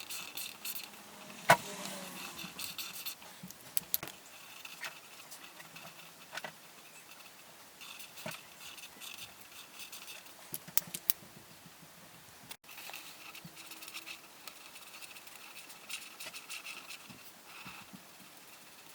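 Coloring tool scratching and rubbing on paper in short strokes, with scattered clicks and taps, the loudest about a second and a half in.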